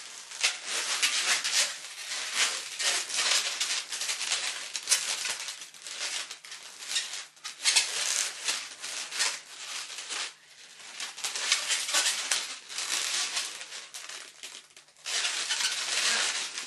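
Latex twisting balloons rubbing and crinkling against each other and against hands as they are worked into shape, in quick irregular strokes, easing off briefly about ten seconds in and again shortly before the end.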